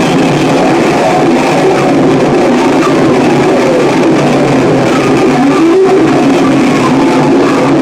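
Harsh noise music: a loud, dense, unbroken wall of distorted noise with a few short squeals sliding in pitch.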